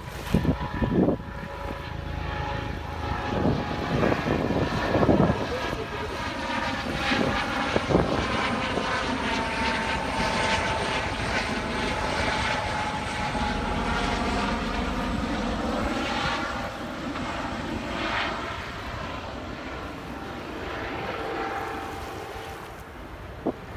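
A passing engine drone with several steady tones whose pitch slowly sags through the middle, over wind noise, with a few sharp knocks in the first five seconds.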